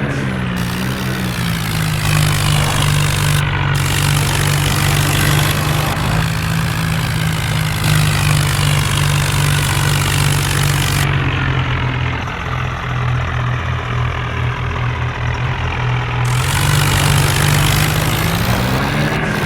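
Tractor's diesel engine running steadily, its note sagging slightly partway through and rising again near the end.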